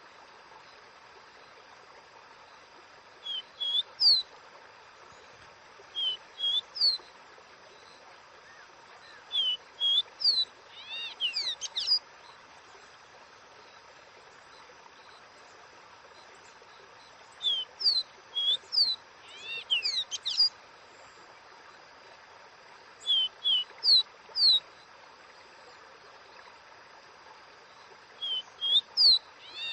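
Caboclinho, a Brazilian seedeater, singing its 'Dó Ré Mi' song: about six short phrases of clear rising whistles, the longer ones ending in a quick run of sweeping notes, a few seconds apart with a longer pause in the middle. A steady soft hiss lies underneath.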